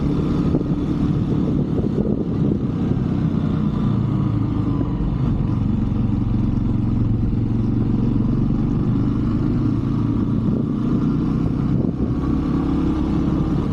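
125cc Brixton motorbike engine running steadily while being ridden, with a constant engine drone and road noise at an even level.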